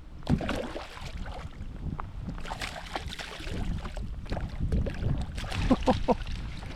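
Wind rumbling on the microphone, with scattered short knocks and rustles of handling from a kayak on the water.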